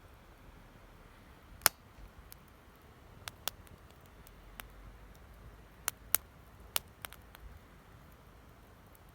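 Wood fire crackling: sharp, irregular pops over a low hiss, the loudest about a second and a half in.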